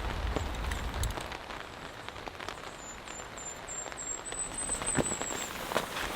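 Rain falling steadily, with scattered heavier drops hitting close by. A low rumble fades out about a second in, and a high, thin run of chirps sounds through the middle.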